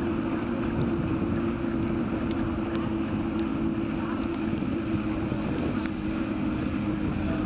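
Wind rumbling on the microphone while riding, over a steady low hum.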